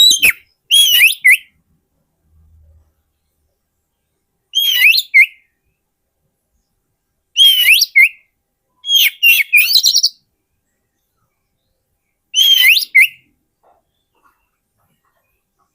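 Oriental magpie-robin (kacer) singing: about five short phrases of loud whistled notes that glide up and down, each under a second long, with pauses of one to three seconds between them.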